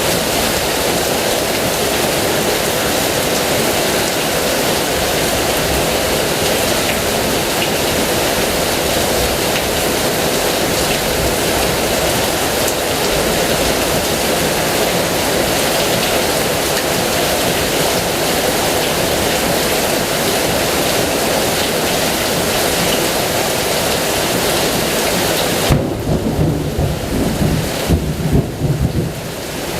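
Heavy rain falling steadily. Near the end the hiss of the rain thins and a low, uneven rumble of thunder comes through for a few seconds before the rain returns.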